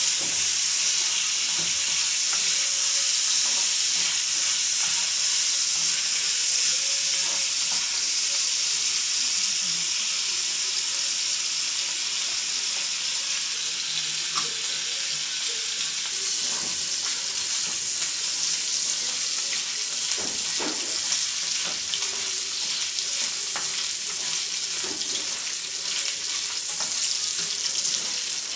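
Chicken pieces frying in hot oil in a wok, with a steady sizzle that eases off slightly over time. A spatula stirs the pan now and then, making scattered scrapes and clicks.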